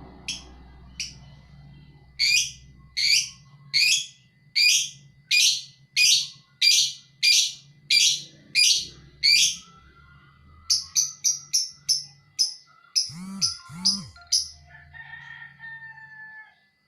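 Lovebird ngekek: a long run of loud, shrill calls repeated evenly, about one and a half a second, followed by a quicker run of sharper chirps and then a few scattered, quieter calls.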